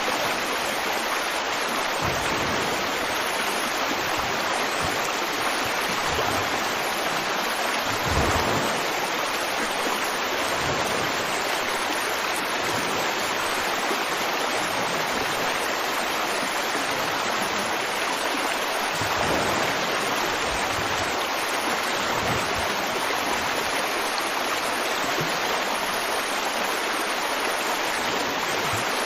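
River water flowing steadily over rocks, a continuous rushing with small surges, one a little stronger about 8 seconds in.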